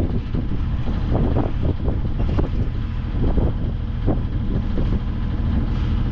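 Wind buffeting the microphone over a steady low rumble of a yacht under way, its engine running.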